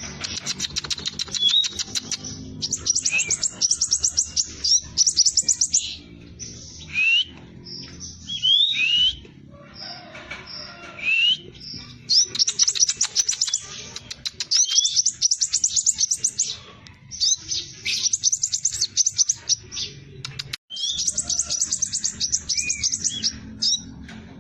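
Scarlet minivet (sepah raja) singing in full voice: repeated bursts of very fast, high trills, each about a second long, broken up by short rising whistled notes.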